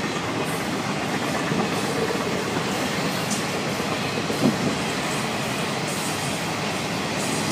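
A Florida East Coast Railway freight train's cars, auto racks among them, rolling past: a steady rumble of wheels on the rails with scattered faint clicks.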